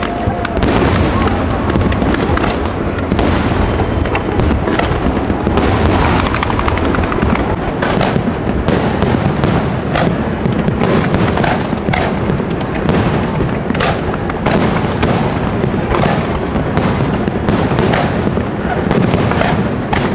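Fireworks display: aerial shells bursting in a continuous barrage, many bangs a second coming irregularly and overlapping one another.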